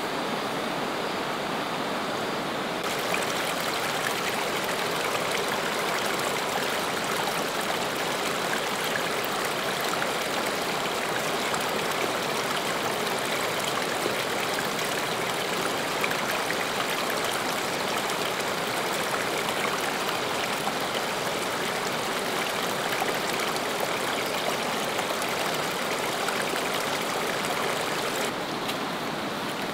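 Heavy rain falling steadily through the forest: a dense hiss with fine scattered drop ticks, its hiss brightening a few seconds in and easing back near the end.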